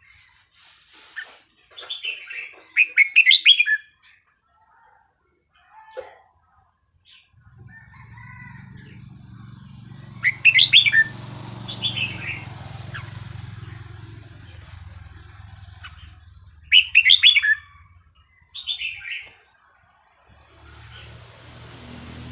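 Red-whiskered bulbul singing: short phrases of quick, bright whistled notes in several separate bursts. A low steady hum runs underneath from about a third of the way in.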